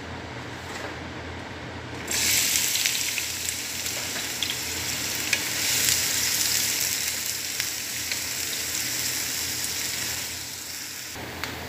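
Chopped onion hitting hot oil in a nonstick frying pan: a loud sizzle starts suddenly about two seconds in and goes on while a wooden spatula stirs it with light scrapes and taps, then cuts off abruptly near the end. Before it there is only a steady low hum.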